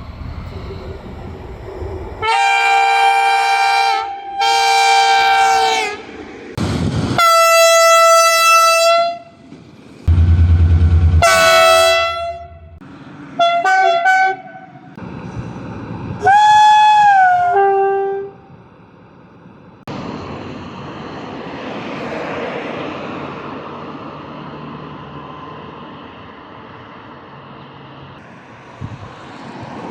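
A run of train horn blasts, about six in all, at differing pitches: the first two are long multi-tone chords, and the later ones are shorter single notes, one of which bends up and back down. From about 20 seconds in, the horns give way to a steady rumbling noise.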